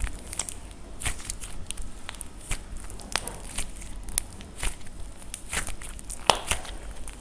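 Dried plaster clay being cracked and crumbled: a run of irregular sharp crunches and crackles, several a second, with one louder snap about six seconds in.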